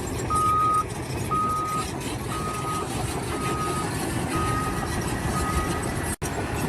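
Heavy vehicle's reversing alarm beeping six times at one steady pitch, about once a second, over a low engine rumble.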